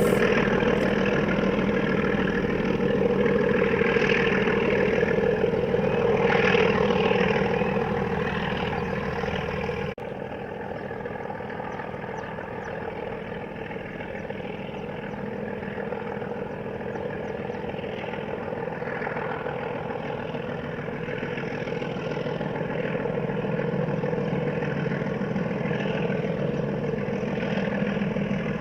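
A heavy engine running steadily, with some clatter. About ten seconds in, the sound cuts suddenly to a quieter, similar engine noise.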